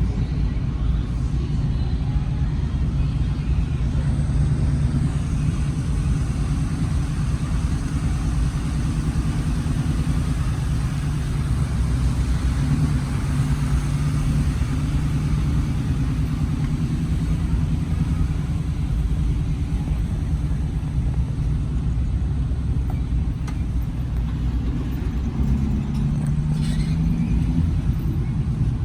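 A truck's engine running with a steady low rumble.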